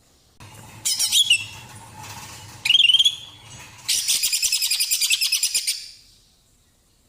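Female green leafbird (cucak ijo) calling: two sharp sweeping calls in the first three seconds, then a fast rattling trill of about a dozen notes a second lasting nearly two seconds.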